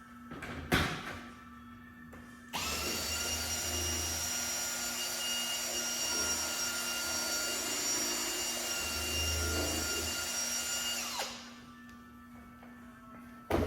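Electric drill with a mixing paddle running steadily for about nine seconds, stirring the two-part seat foam after the second part goes in; it starts abruptly a few seconds in and cuts off near the end. A short knock comes just before it.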